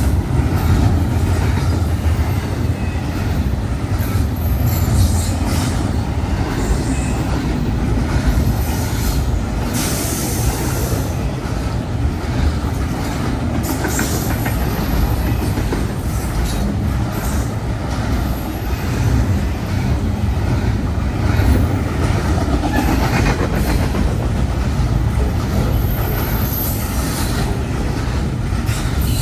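CSX intermodal freight train's cars rolling past close by: a steady heavy rumble of wheels on rail with some clickety-clack, and brief high-pitched wheel squeals now and then.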